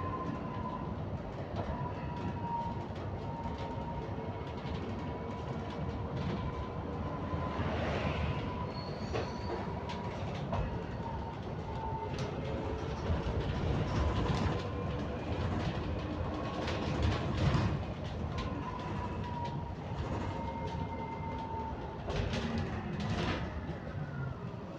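Interior of a London bus in motion: low road rumble with a steady whine that wavers slightly in pitch, and scattered rattles and knocks through the ride.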